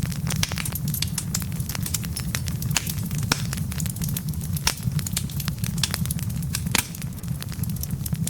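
Wood fire crackling, with many sharp irregular pops and snaps over a steady low rumble of burning logs.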